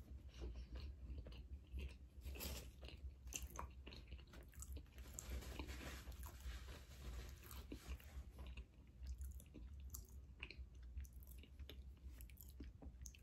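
A person chewing a bite of cookie with faint, irregular wet mouth clicks and smacks.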